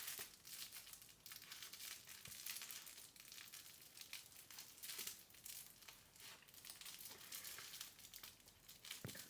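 Puppy rummaging in a fabric snuffle toy for hidden biscuits: faint, irregular rustling and crinkling of the fabric.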